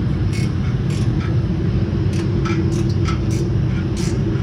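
A steady low mechanical drone with a held hum, with scattered light clicks and taps on top.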